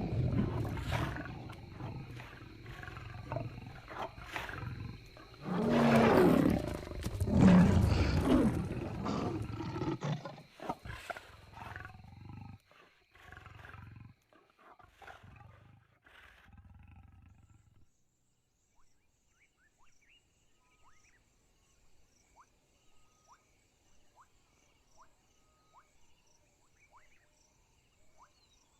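Lions snarling and roaring in a territorial fight, loudest about six to eight seconds in, then breaking into a few scattered growls that die away. Faint regular insect chirps are all that remain over the last ten seconds.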